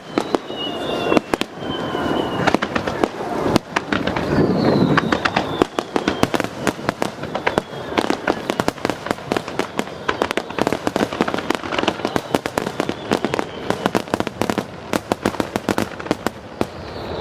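Fireworks display: dense, rapid crackling reports and bangs of bursting aerial shells, with a few whistling tones falling in pitch in the first five seconds.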